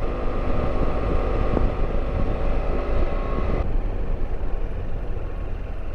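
Motorcycle engine running while riding, its note dropping off about three and a half seconds in.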